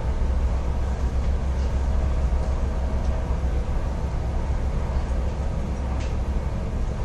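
Helicopter running close by, a loud, steady low rumble of rotor and engine.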